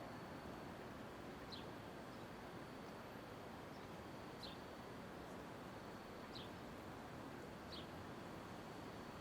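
Faint, steady street ambience of distant traffic, with four short high chirps from a small bird spread across it.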